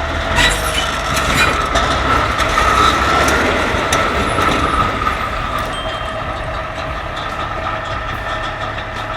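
Heavy machinery working: a continuous low engine rumble under a steady high whine, with scattered metallic knocks and clanks.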